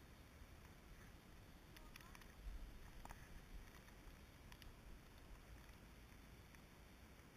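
Near silence: a faint low rumble with a few soft clicks, and a brief low thump about two and a half seconds in.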